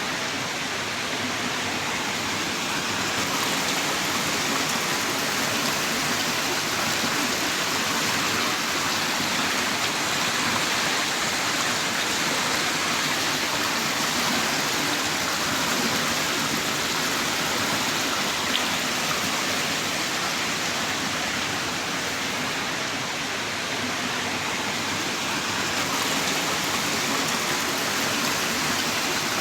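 Heavy rain pouring down in a steady, dense hiss of countless drops, with no let-up.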